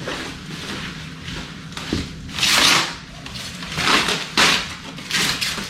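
Cardboard packing being pulled out and handled during an unboxing: a click about two seconds in, then several short bursts of rustling and scraping.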